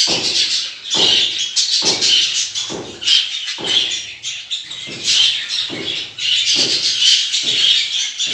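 A cage full of budgerigars chattering and chirping continuously, a dense high twittering. A lower sound repeats about once a second underneath it.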